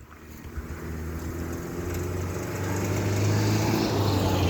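A motor vehicle's engine approaching, a low hum that grows steadily louder over the first three seconds and then holds.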